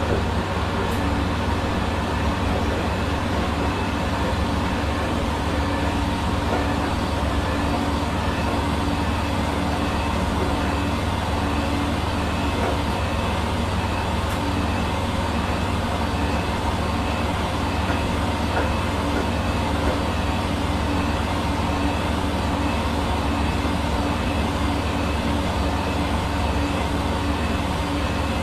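Hair dryer running steadily: a constant rush of blown air over a strong low motor hum, unchanging throughout.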